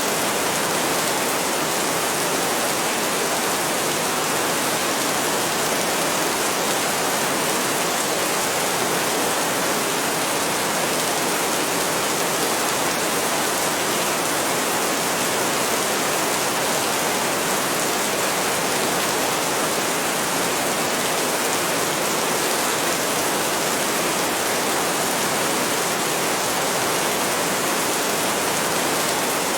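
Heavy rain falling steadily, an even hiss that does not change, with no thunder.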